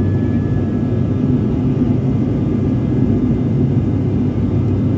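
Turboprop airliner's engines and propellers droning steadily in flight, heard inside the passenger cabin: an even, deep rumble with faint steady higher tones over it.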